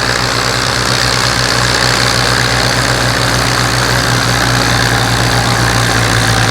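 Small antique Ford tractor engine running steadily at an even, low pitch.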